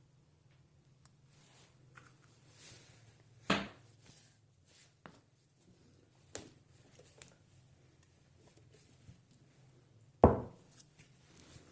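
Workshop handling sounds: two solid knocks, one about three and a half seconds in and a louder one near the end, with lighter clicks and taps between them, over a faint steady low hum.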